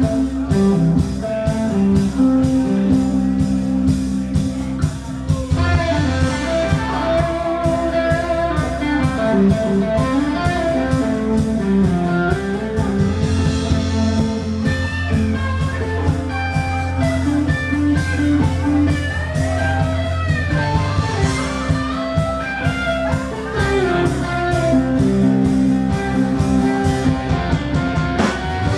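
Live blues-rock band playing an instrumental break: an electric guitar solo with bending notes over bass and a steady drum beat.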